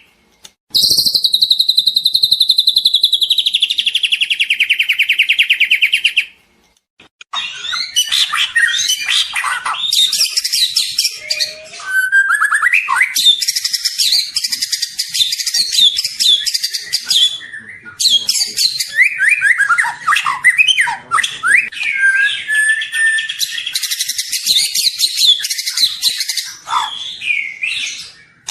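Young white-rumped shama (murai batu) still in spotted juvenile plumage, singing loudly. It gives a long, rapid buzzing trill that falls slightly in pitch, pauses about six seconds in, then launches into a dense run of varied fast chattering phrases, whistles and sweeps.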